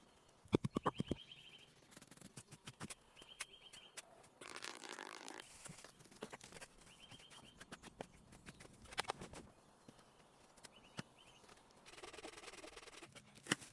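Hand work on a building site: a rapid run of knocks about half a second in, more single knocks and taps, and two stretches of scraping. A short, high bird trill repeats four times, every three to four seconds.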